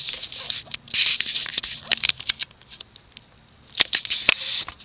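Irregular scratchy rustling with many sharp clicks: hands handling and brushing against things at close range.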